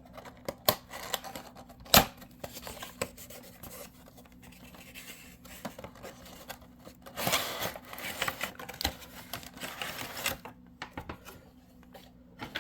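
A model train car's box being opened by hand: scattered clicks, scraping and rustling of the packaging, with a sharp click about two seconds in and a busier stretch of rustling later on.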